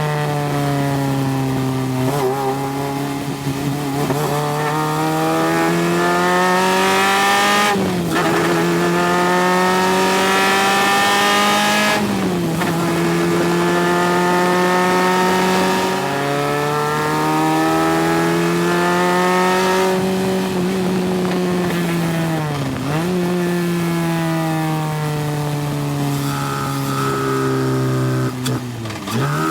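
Single-seater race car engine heard from the cockpit under hard acceleration, its pitch climbing through each gear and dropping sharply at each gear change, about every four seconds.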